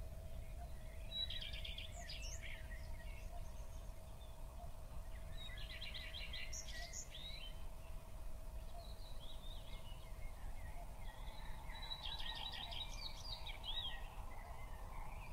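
A songbird singing three phrases, each a quick run of repeated high notes ending in a flourish, several seconds apart, over a faint steady hum.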